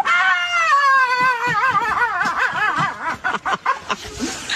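A high-pitched voice wailing: one long cry falling in pitch, then a quavering, wobbling call that fades out.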